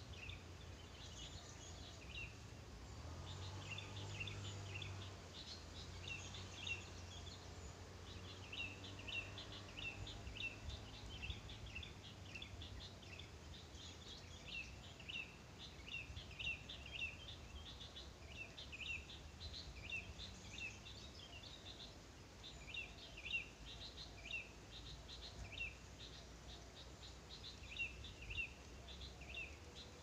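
Small birds chirping faintly: runs of short, high, falling notes repeated throughout.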